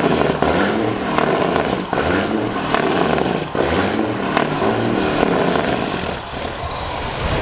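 Semi trucks' diesel engines running, with the pitch shifting as they rev.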